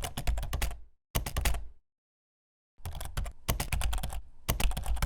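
Rapid keyboard-typing clicks in three runs, broken by dead silence: an edited-in typing sound effect.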